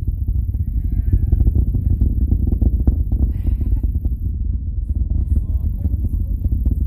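Falcon Heavy rocket's deep rumble during ascent, heard from afar as a steady low roar thick with crackle: the rocket's sound wave reaching the spectators.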